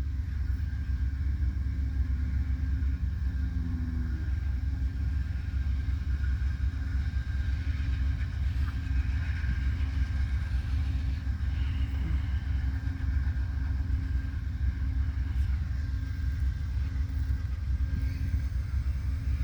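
Diesel locomotives of an Amtrak passenger train running steadily close by: a low rumble with a steady hum over it.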